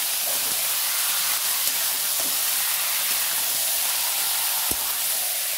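Raw chicken pieces sizzling in hot mustard oil with fried onion and ginger-garlic paste in a kadhai, stirred with a spatula. A steady loud hiss with light scraping, and a single sharp knock of the spatula near the end.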